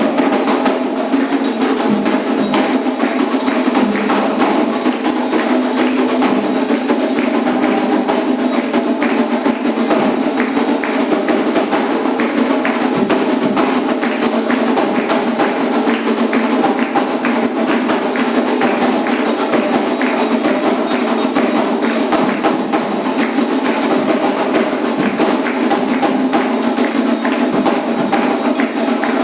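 Candomblé ritual percussion: hand drums and a struck bell playing a fast, unbroken rhythm, with group singing over it.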